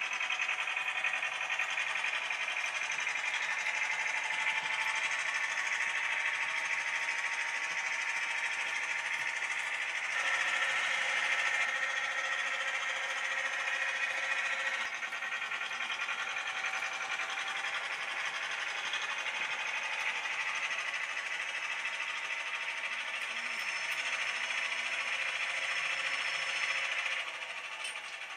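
Model railway locomotive running steadily along the track: small electric motor whirring, with wheel noise. It grows a little louder partway through and fades near the end.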